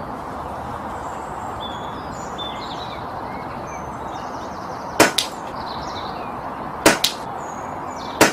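Brocock Concept pre-charged pneumatic air rifle firing three shots about two seconds apart, starting about five seconds in, each a sharp double crack. Birds chirp faintly in the first half.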